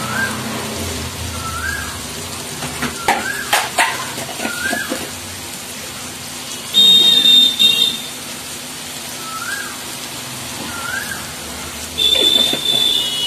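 Masala of tomato and ground spices frying in oil in a kadai, a steady sizzle. A bird's short rising-and-falling call repeats every second or two, and two louder bursts of a shrill high tone cut in, about seven seconds in and again near the end.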